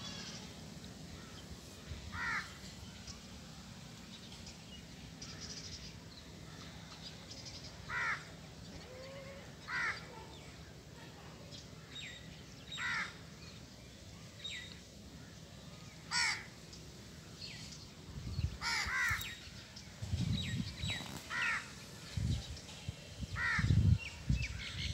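A bird calling in about ten short calls spread a few seconds apart. Low rumbles come and go over the last several seconds.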